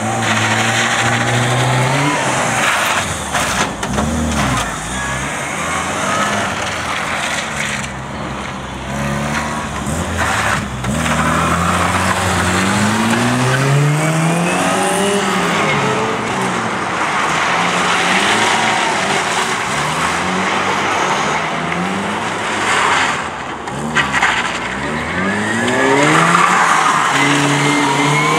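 Classic Mini's A-series four-cylinder engine revved hard and let off again and again as the car is driven quickly around a cone course, the pitch climbing and falling through gear changes and turns, with some tyre squeal.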